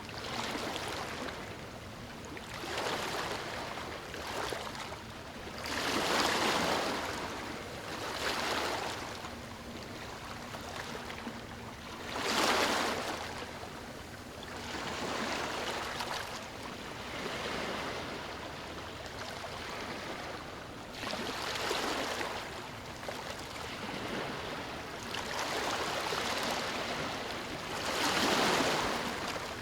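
Ocean surf washing onto a beach, one wave after another, swelling and falling back every two to three seconds, with a few larger waves standing out.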